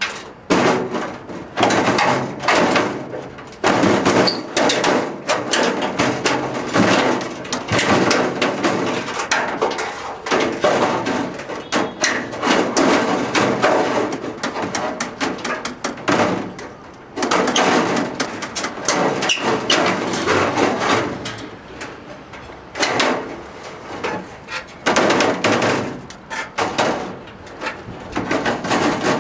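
Sheet metal being hammered and handled while a chimney is clad: dense, irregular knocks and clattering, several a second, with short lulls.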